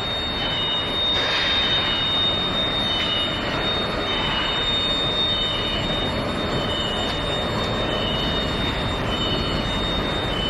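Steel pipe induction annealing line running: a steady industrial machine noise with a thin high-pitched whine throughout, and a slightly lower whine coming and going every second or so.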